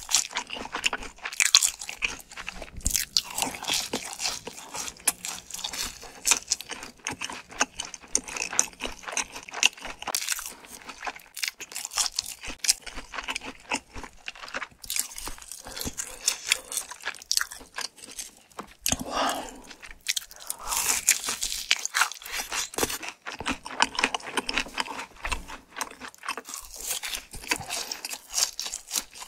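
Close-miked crunching and chewing of seasoned boneless fried chicken, dense irregular crisp bites, with softer chewing of spicy rice cakes later on.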